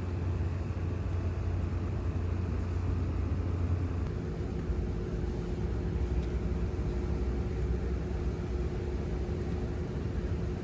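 A motor vehicle's engine running steadily, its low note dropping to a deeper one about four seconds in.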